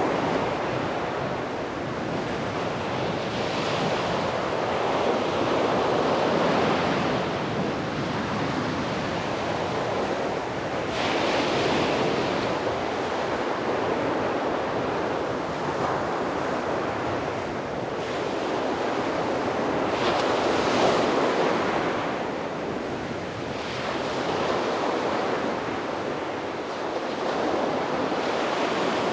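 Sea waves breaking and washing on a beach, a continuous surf rush that swells and eases every few seconds.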